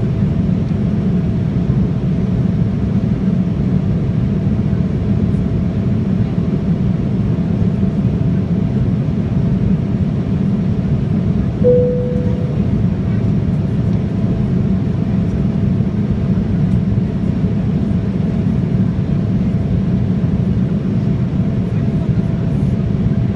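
Cabin noise of an Embraer 175 in flight: a steady rush of airflow and its two GE CF34 turbofans, with a low hum and a faint steady whine. A single cabin chime sounds about halfway through.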